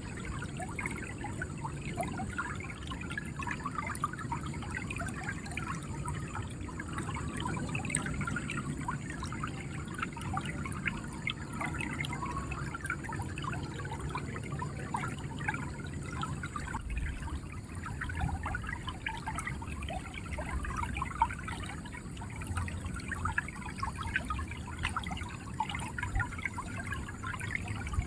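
Shallow river water gurgling and trickling steadily over stones, with a low rumble underneath.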